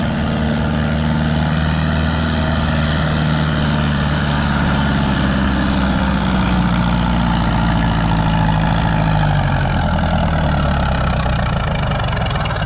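Small vintage Oliver 66 farm tractor engine running steadily under load while it pulls the weight sled. Its pitch sags a little about two-thirds of the way in.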